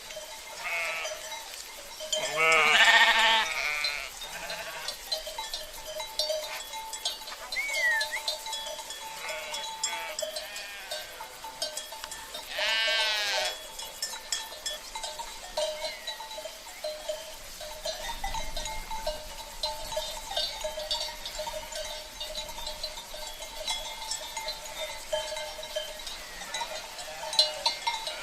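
A flock of sheep with livestock bells: two loud bleats, about two seconds in and again around twelve seconds, with a few fainter ones between, over the steady clanking of the bells.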